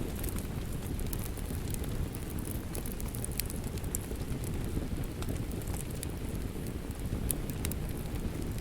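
Wood fire crackling, with scattered sharp pops and snaps over a steady low rumble of rain.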